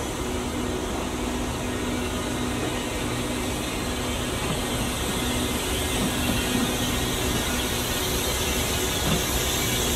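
Passenger coaches rolling slowly over the tracks and points, a steady rumbling noise with a steady mechanical hum that grows slightly louder toward the end.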